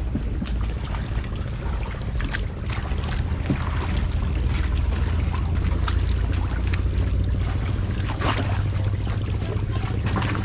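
Small boat's motor running steadily with a low hum, with scattered knocks and clicks over it.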